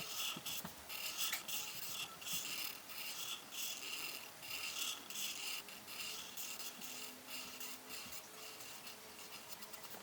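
A coloring tool scratching back and forth on paper in quick repeated strokes, about two to three a second, a little softer in the last few seconds.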